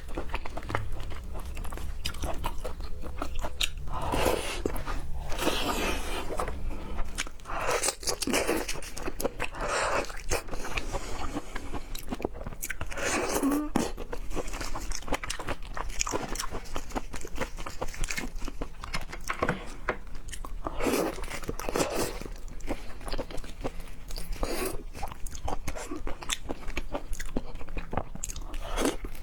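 A person biting and chewing raw seafood: continuous wet mouth clicks and crunches, with louder bites now and then.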